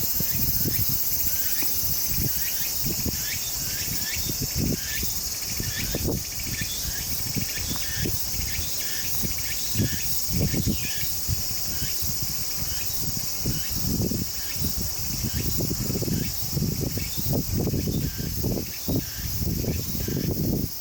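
Insects chirping: a steady high-pitched drone with a short chirp repeating about twice a second, over irregular low rumbling and knocks.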